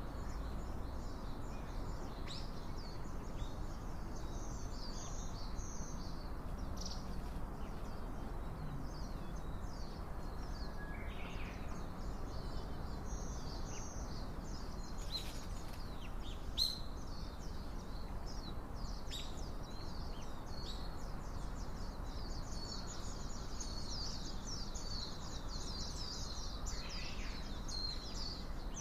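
Small wild birds chirping, many short high calls overlapping and growing busiest near the end, over a steady outdoor background hiss, with one sharp tick just over halfway.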